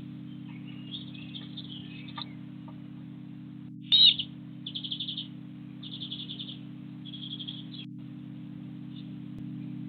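Small garden bird calling: scattered chirps, then a loud sharp call about four seconds in, followed by three short rapid trilled phrases. A steady low hum runs underneath.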